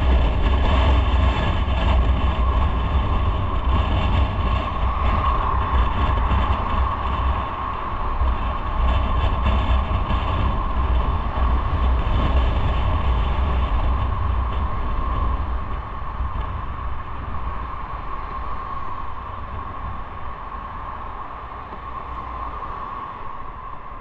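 Motorcycle on the move, with its engine and the wind and road rush of the ride running steadily. The sound grows gradually quieter over the last third.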